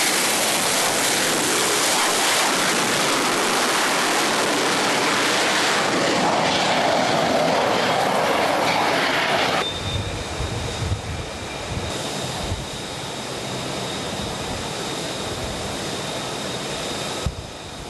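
Loud, steady jet-engine roar. About ten seconds in it cuts off abruptly to a quieter low mechanical rumble with a faint steady high whine.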